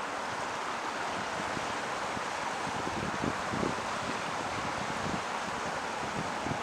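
Steady rushing hiss with wind buffeting the microphone in irregular low rumbles.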